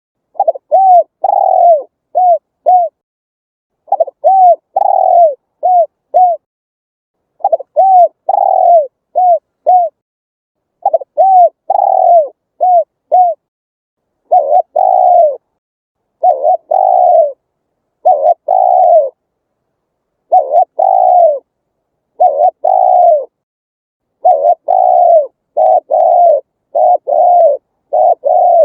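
Spotted dove cooing loudly in repeated phrases of three to five coos each, the phrases coming about every two seconds with short silences between them.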